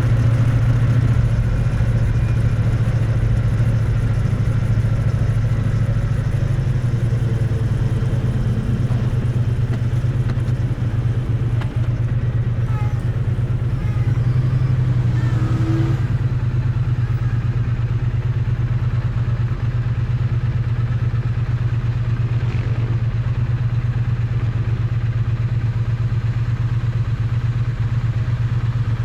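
Triumph Bonneville T100's parallel-twin engine and exhaust running steadily, picked up close to the exhaust, with little change in engine speed.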